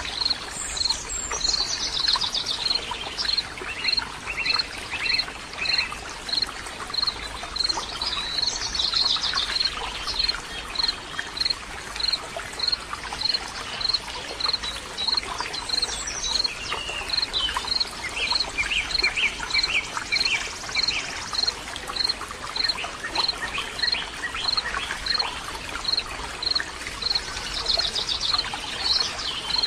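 Outdoor nature sound: running water gives a steady rush under bird song, with several songbird phrases coming and going. Throughout, a single high chirp repeats evenly about one and a half times a second.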